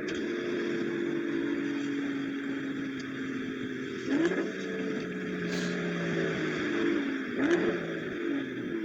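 BMW M340i's turbocharged straight-six, on an MHD Stage 2 tune with an aftermarket exhaust, running at speed. Twice, about four and seven and a half seconds in, the engine note dips sharply and climbs again with a brief loud crack, as at a quick gear change.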